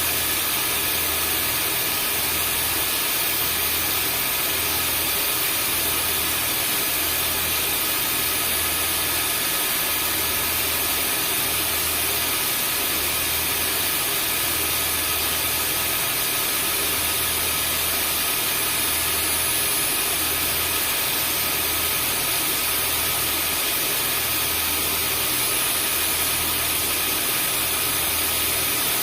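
Vacuum cleaner motor running steadily: a constant hiss of rushing air with a high motor whine and a low, regularly pulsing throb.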